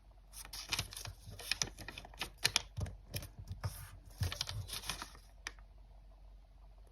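Origami paper being folded and creased by hand: a quick run of crisp crackles and taps that stops about five and a half seconds in.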